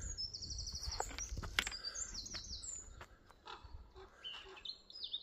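Small birds chirping and singing, with a rapid trill of repeated high notes about half a second in. A few sharp clicks sound about one to one and a half seconds in.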